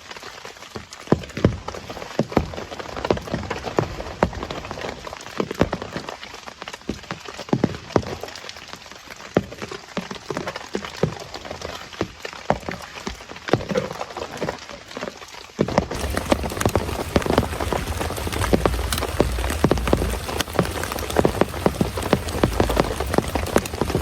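Heavy rain falling on a surface: separate, irregular drop taps over a steady hiss. About two-thirds of the way through it abruptly becomes louder and denser, with a low noise underneath.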